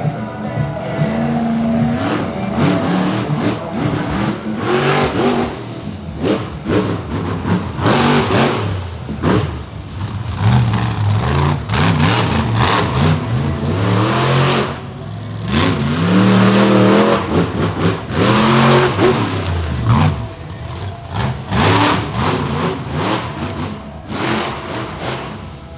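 Monster truck engine revving hard, its pitch climbing and falling over and over with sharp throttle bursts.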